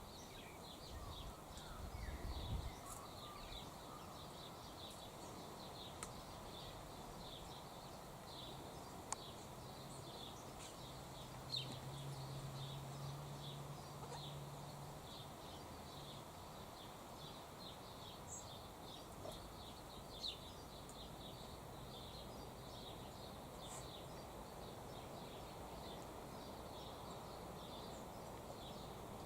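Quiet outdoor ambience: a steady run of rapid, high chirps goes on throughout, with a few soft clicks scattered through it and a faint low hum for a few seconds around the middle.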